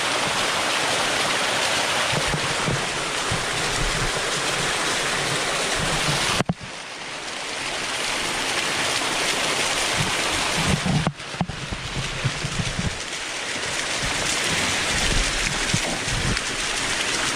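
Waterfall rushing close by, a loud, steady hiss of falling water. The sound dips sharply twice, about six and a half and eleven seconds in.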